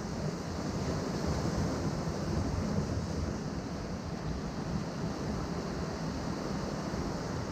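Atlantic surf washing over a rocky shore: a steady rush of water with no single breaking crash, and wind rumbling on the microphone.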